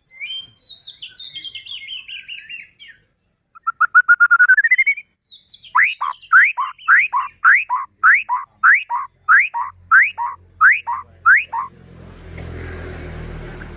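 White-rumped shama singing: a few varied warbled phrases, then a rising trill, then one rising note repeated about a dozen times, a little over two a second. A rustling noise comes in near the end.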